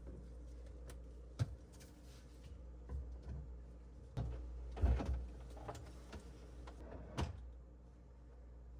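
Scattered knocks and clunks from parts being handled, the strongest about five seconds in, over a steady low hum.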